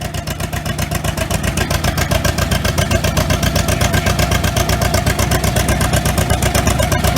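Tractor engine running with an even, rapid exhaust beat, growing louder over the first two seconds or so and then holding steady.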